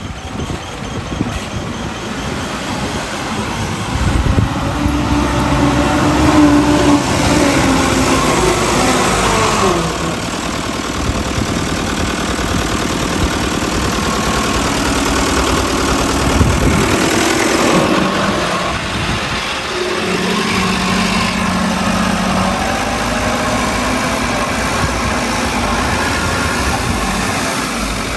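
Diesel engines of heavy earthmoving machinery, a bulldozer and dump trucks, running continuously, with the engine pitch rising and falling as they rev up and down.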